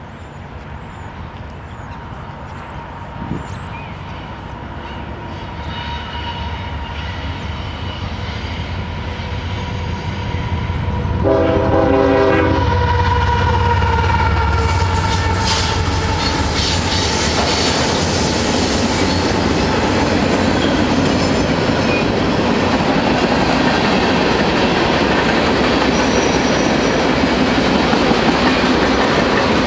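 Diesel-hauled freight train approaching and growing steadily louder, the locomotive sounding a multi-note air horn for a few seconds about eleven seconds in. The locomotive then passes close with a deep engine rumble, and the cars roll by loudly.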